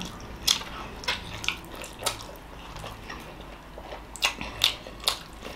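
Wet mouth clicks and smacks of someone chewing a sauce-dipped steamed momo, as scattered short clicks with a cluster of louder ones near the end.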